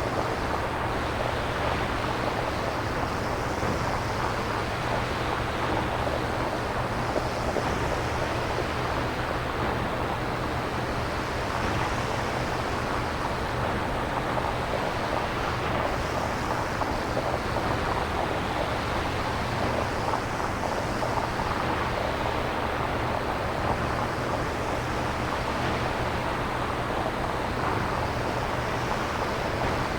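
Synthesized nature-sound noise with no samples used: a steady rushing hiss whose upper part swells and fades about every four seconds, over a low steady rumble.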